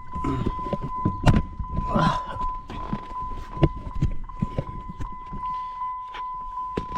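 Vehicle moving, heard from inside the cab: scattered knocks and rattles over a low rumble, with a steady high-pitched tone throughout.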